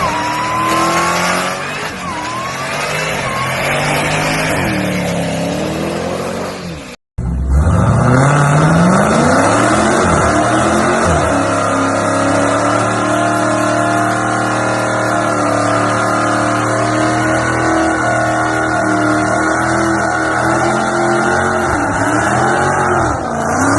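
Dodge Challenger SRT's supercharged V8 revving with rising and falling pitch. After a cut at about seven seconds, it accelerates hard with a steep climb in pitch and then holds high, steady revs for about ten seconds. Near the end the pitch dips and climbs again.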